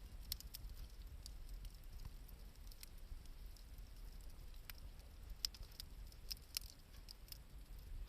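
Wood campfire crackling: irregular sharp pops and snaps, the loudest about half a second and about five and a half seconds in, over a low steady rumble.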